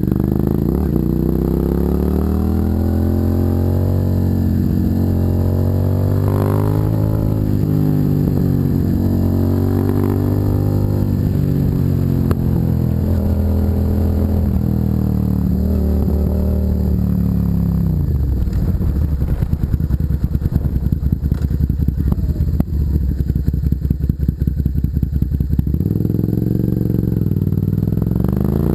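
Suzuki SV650's 645 cc V-twin running through an aftermarket custom exhaust while riding, rising in pitch and falling back several times as it goes through the gears. Past the middle it runs low and uneven for several seconds, off the throttle, then revs up again near the end.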